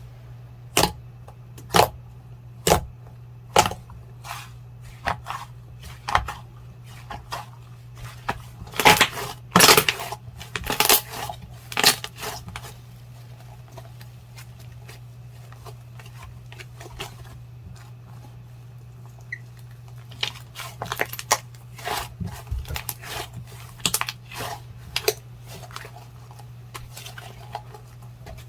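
Clear jelly slime being squeezed and stretched by hand, giving irregular sharp clicks and snaps, thickest about eight to thirteen seconds in and again past twenty seconds. A steady low hum runs underneath.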